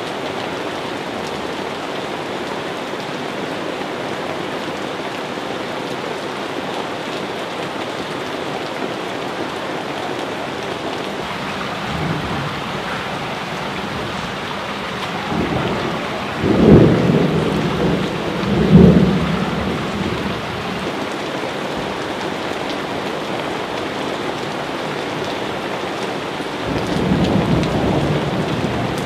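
Steady rain falling in a thunderstorm. A roll of thunder builds about halfway through, with two loud peaks a couple of seconds apart, and another rumble rises near the end.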